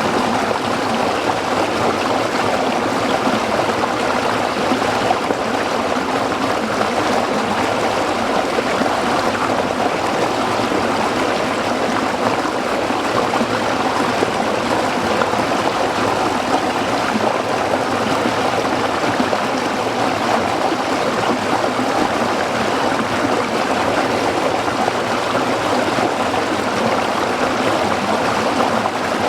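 Small stream running over rocks: a steady, even babble and trickle of water.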